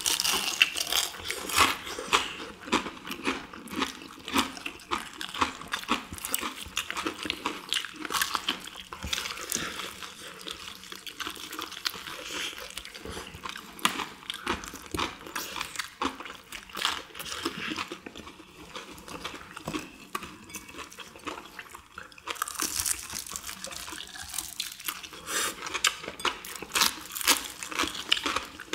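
Close-up crunching and wet chewing of deep-fried chicken in a crisp perilla-leaf batter, as several people bite into and chew the pieces; dense crackly crunches throughout, with a burst of brighter crunching about three quarters of the way through.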